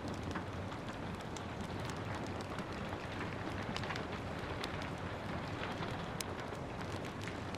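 Steady rain with a wood fire crackling over it: scattered sharp pops and snaps, one louder pop about six seconds in.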